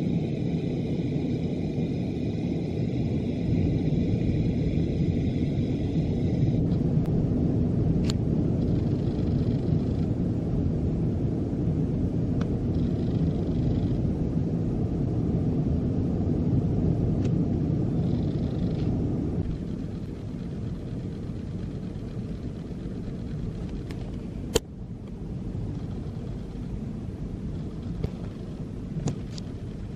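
Heavy rain pouring down on a wooden deck and a glass patio table, a steady low rushing that eases somewhat about two-thirds of the way through. A sharp click near the end.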